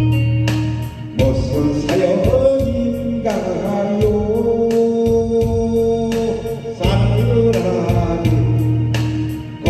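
A man singing a Korean pop song over music with a steady beat and organ, holding one long note in the middle.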